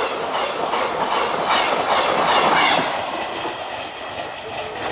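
Talgo passenger coaches passing at high speed, a rushing noise with the wheels clicking over the rail joints, fading as the train draws away.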